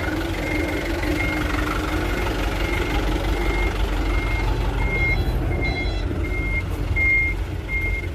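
Hino Dutro dump truck's reversing beeper sounding steadily, about one short beep every 0.6 s, over the low rumble of its diesel engine as it backs up.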